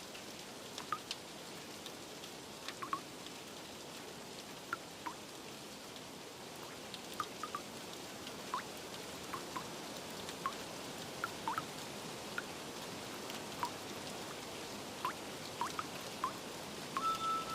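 Steady rain hiss with single water drips plinking at irregular intervals. Near the end, soft held chime-like music tones come in.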